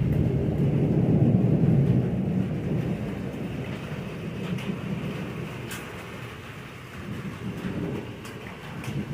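Rolling thunder rumbling low, loudest a second or two in, then dying away, with a smaller swell near the end.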